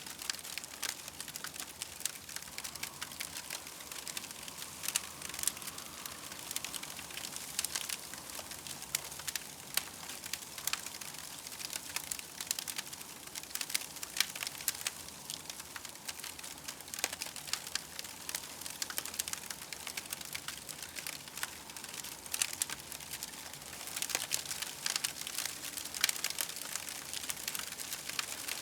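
Campfire crackling, with frequent small pops and snaps over a steady hiss.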